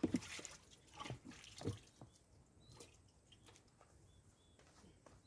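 A few soft splashes or knocks in water during the first two seconds, then a series of faint, short, high peeping calls from birds, several a second apart.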